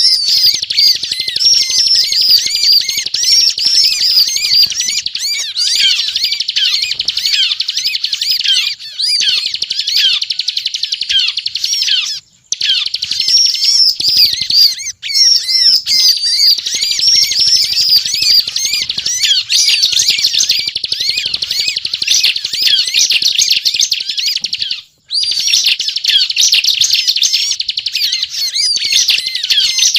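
Bar-winged prinia singing nonstop in a rapid run of high chirping notes, broken only by two short pauses, about twelve seconds in and near twenty-five seconds.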